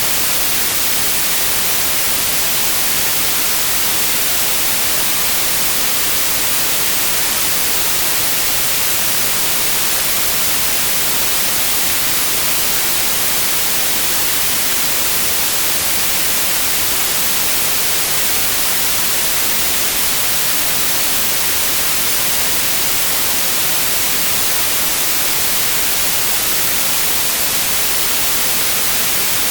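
White noise: a steady, loud, even hiss, flat and unchanging throughout.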